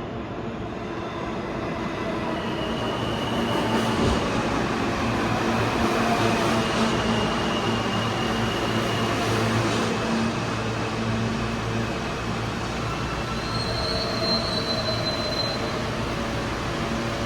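New York City subway train running through the station: a rumbling rush of steel wheels on rail with a steady motor hum, growing louder for a few seconds and then easing. Thin high-pitched wheel squeals come and go, the sharpest near the end.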